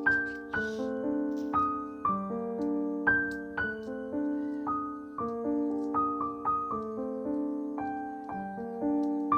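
Background piano music: a gentle melody of single notes over sustained chords, each note struck and fading.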